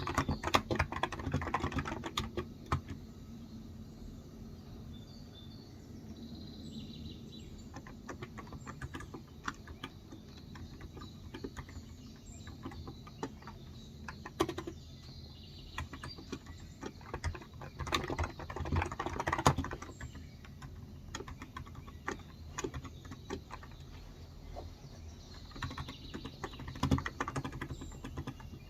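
Typing on a Cox Endeavor electrostatic capacitive (non-contact) keyboard with light 35 g switches. The keystrokes come in bursts, with sparser key presses in the pauses between. Faint bird chirps sound in the background.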